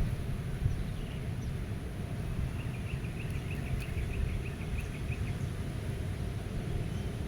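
Wind blowing steadily in a meadow, heard as a low rumble, with a small songbird giving a quick run of short high notes, about five a second, for a couple of seconds from about two and a half seconds in.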